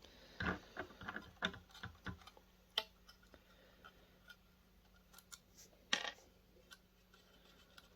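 Screwdriver working small screws out of a projector's metal casing: a run of small clicks and scrapes in the first two seconds, then scattered ticks, with one sharper knock about six seconds in.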